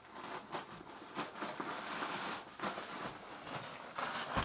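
Tissue paper rustling and crinkling in irregular bursts as a dog digs into a wrapped gift.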